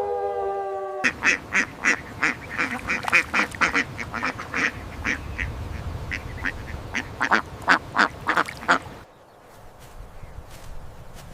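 Birds calling: a quick, irregular run of short, harsh calls, two or three a second, for about eight seconds. It is cut off and followed by a quieter stretch with a few faint clicks. The first second carries the tail of a long held animal call that stops abruptly.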